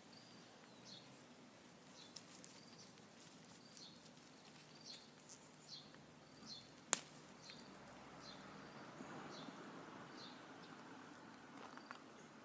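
A small bird repeating short, high calls over and over, faint, with a single sharp click about seven seconds in.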